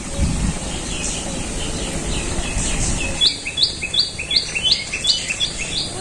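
Birds chirping; about halfway through, one bird starts a fast run of short, high repeated notes, about three a second.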